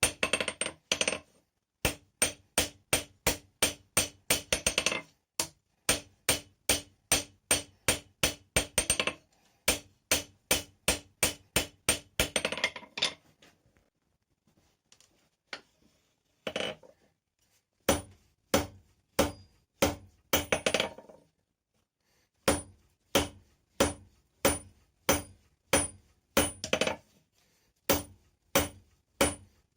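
Hand hammer striking hot rebar on an anvil, a steady run of about three blows a second, each with a short metallic ring. Partway through the hammering stops for a few seconds, apart from one brief flurry of blows, then picks up again.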